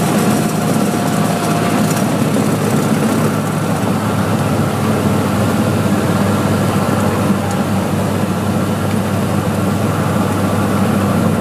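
Cessna 182's single piston engine and propeller running steadily.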